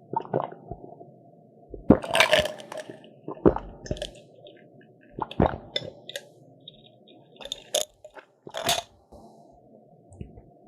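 Close-miked eating of a crisp croffle: irregular crunchy bites and chewing, with several sharp crackles a few seconds apart over a low steady hum.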